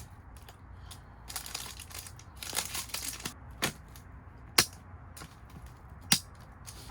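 Plastic packaging of disposable hand warmers crinkling and rustling as it is handled, with three sharp clicks, the last near the end.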